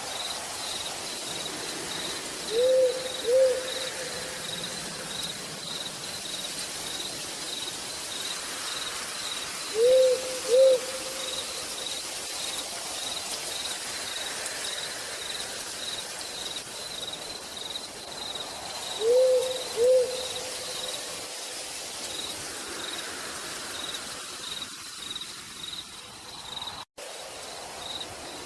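An owl hooting three times, each time a pair of short notes, over a steady hiss of rain and a cricket chirping at an even pulse. Near the end the sound cuts out completely for an instant.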